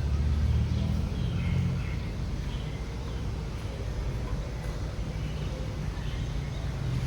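Huebsch washing machine running with a steady low rumble, a little louder in the first two seconds.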